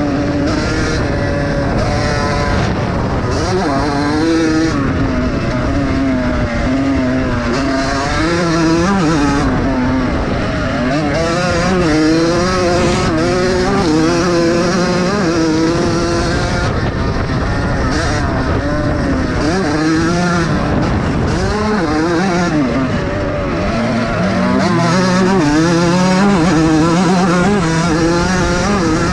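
Several vintage motocross bikes racing together, their engines revving up and down as they are throttled on and off and shifted around the track. The overlapping engine notes keep rising and falling, swelling a little louder near the end.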